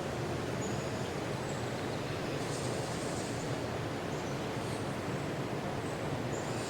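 Forest ambience: a steady, low rushing noise with faint, brief high bird chirps now and then.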